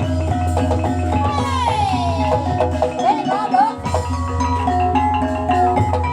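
Gamelan music accompanying an ebeg hobby-horse dance: mallet instruments strike held notes that change in steps, with a sliding melody line above them and a low sustained tone underneath that drops out briefly about three seconds in.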